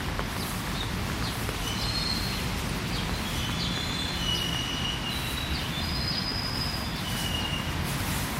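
Songbirds calling with many short, level whistled notes, over a steady low rumble of city traffic.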